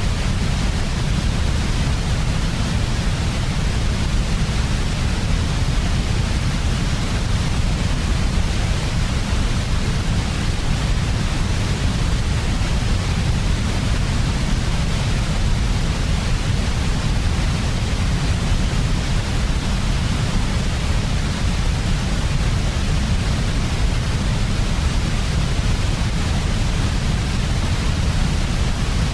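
Steady, unchanging white noise, a sleep sound with a strong deep rumble beneath a softer hiss.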